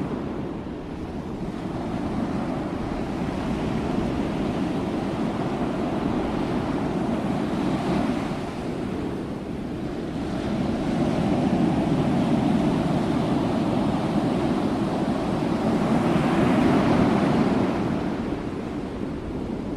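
Ocean waves breaking and washing on a shore in a steady rolling surge, swelling louder a few times and ebbing back.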